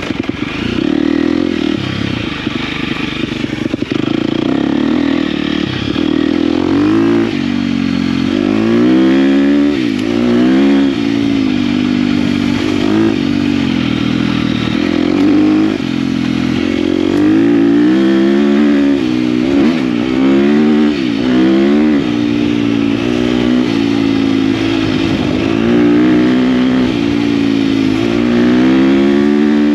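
KTM dirt bike engine running under way, its revs rising and falling again and again as it is ridden along a dirt track.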